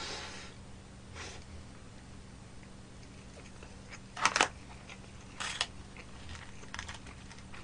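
A person chewing food close to the microphone, with two short, louder crackling noises about four and five and a half seconds in.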